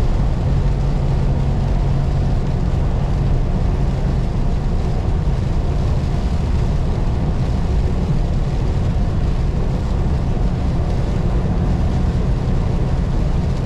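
Semi-truck driving on the highway, heard from inside the cab: a steady low diesel engine drone with road and tyre noise. A low hum in the drone fades out about four seconds in.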